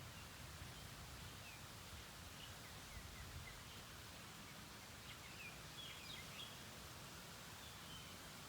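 Small birds chirping faintly now and then, a little cluster of chirps about six seconds in, over a faint steady outdoor hiss and low rumble.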